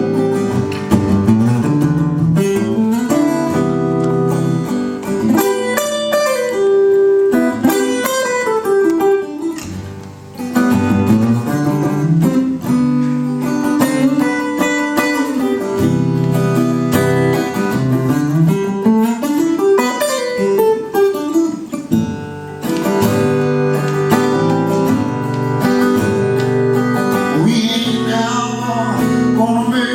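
Instrumental break of a slow song: a guitar leads with sliding, bending notes that glide up and down, over sustained chords. There is a short dip in loudness about ten seconds in.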